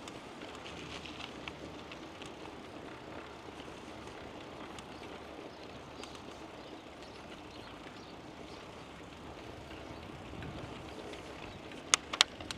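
Steady rolling noise of a bicycle in motion, tyres on the path with wind on the microphone, and two or three sharp clicks in quick succession near the end.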